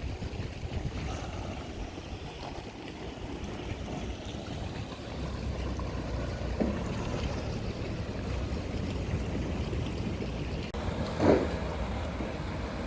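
Sea surf washing in, with wind rumbling on the microphone. A brief louder sound stands out about eleven seconds in.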